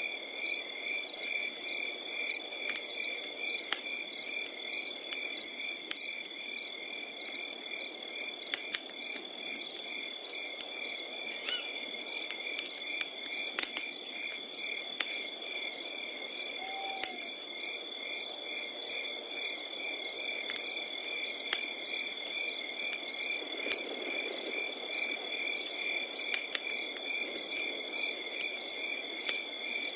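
Night insects chirping in an even rhythm, about two chirps a second over a continuous high trill. Sparse pops and crackles of a wood campfire come through underneath.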